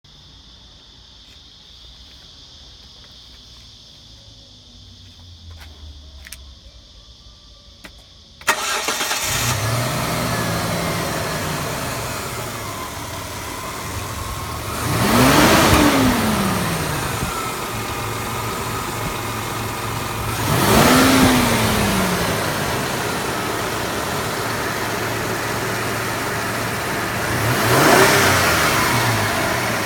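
Mitsubishi Challenger V6 engine starting about eight seconds in after a few faint clicks, catching at once and settling to a steady idle. It is then revved briefly three times, each rev rising in pitch and falling back to idle.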